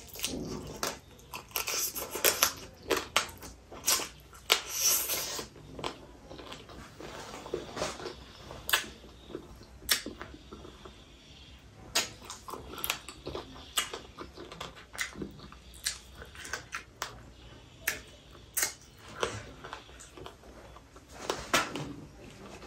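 A person chewing and biting cooked octopus: irregular wet smacks and clicks of the mouth, several a second, busiest in the first five seconds.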